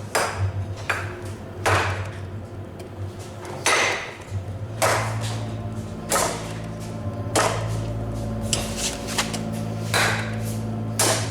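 Hammer striking hot iron on an anvil in forging: about a dozen ringing blows at uneven gaps of a second or so. A steady low hum runs underneath and grows louder about halfway through.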